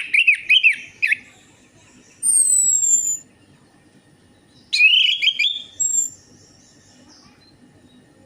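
Orange-headed thrush singing: two bursts of quick down-slurred warbling notes, each followed by a high, thin whistle that falls in pitch, with pauses of a second or so between phrases.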